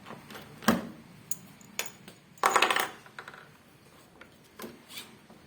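Small metal parts and tools clinking against each other. A sharp knock comes about a second in, a short metallic rattle near the middle, and a few lighter clicks after it.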